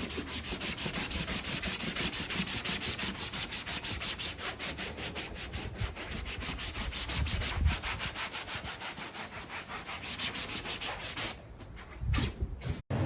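A brush scrubbing back and forth in quick, even strokes, several a second, as in hand-scrubbing during car interior detailing. The scrubbing stops about eleven seconds in, followed by a couple of short knocks.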